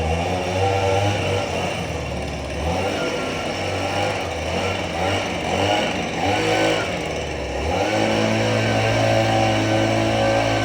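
Tractor engine running, its speed shifting unevenly at first and then settling into a steady note about eight seconds in.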